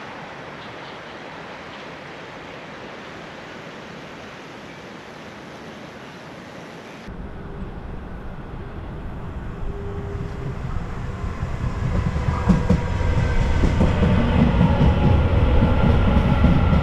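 Steady outdoor hiss, then from about seven seconds in a Taiwan Railways electric commuter train approaching and running along the platform. Its low rumble grows steadily louder, with a faint high whine on top.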